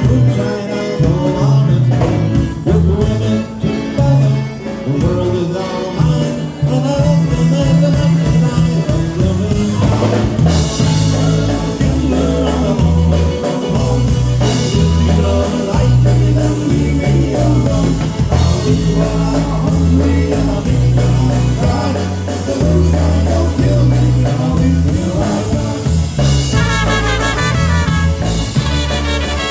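Live polka band playing an oberek, a fast Polish dance tune, with drum kit and a bass line moving under the melody.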